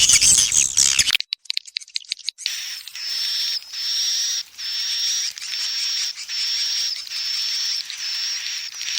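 Recorded swiftlet call used to lure swiftlets into a bird house. It opens with a dense burst of chattering, then a stretch of scattered clicks. From about two and a half seconds in comes a run of high, buzzing twitters, each about a second long, repeated back to back.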